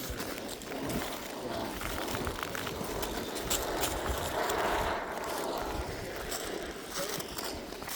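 Wind buffeting the microphone, with scattered crunching footsteps on fresh, brittle lava rock. The rushing noise swells about four to five seconds in, then eases.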